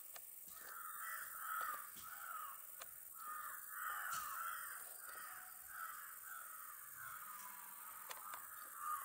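Birds calling in a steady run of short calls, two or three a second.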